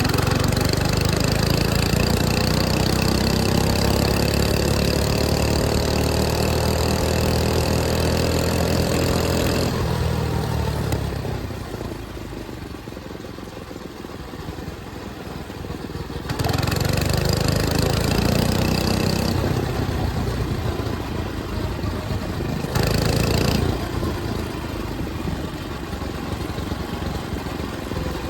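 105cc mini bike engine running under way, its pitch climbing as it accelerates for about ten seconds. It then eases off and goes quieter for several seconds before revving up again, with a short loud burst of throttle later on.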